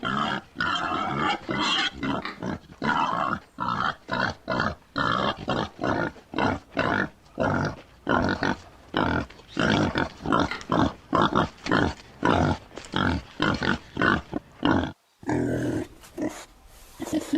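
Domestic pig grunting in a fast run of short, loud calls, roughly two a second. The run breaks off briefly about fifteen seconds in before the calls resume.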